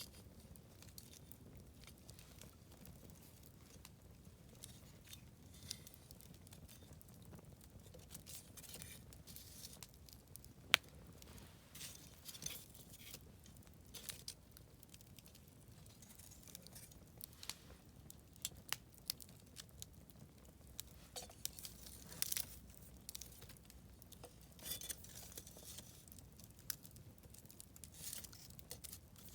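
Wood campfire crackling, with irregular small snaps and pops over a low steady rumble of the burning fire, and one sharp loud pop about eleven seconds in.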